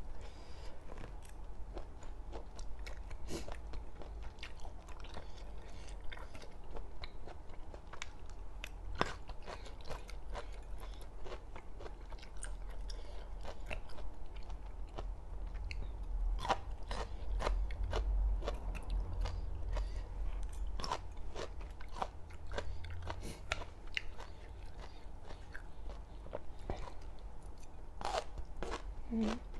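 Close-miked chewing and crunching of crisp food, with many irregular sharp crackly bites throughout.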